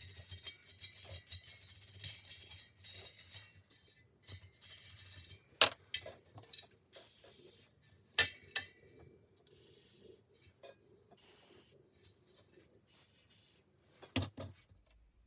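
Hand scrubbing and rubbing on the metal parts of a vintage bicycle wheel during cleaning: a fast scratchy rasping, most busy in the first few seconds, then in slower patches. Sharp metallic clinks break in about six, eight and fourteen seconds in.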